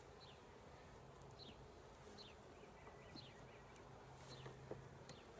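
Honeybees buzzing faintly around an open hive: a low, steady hum.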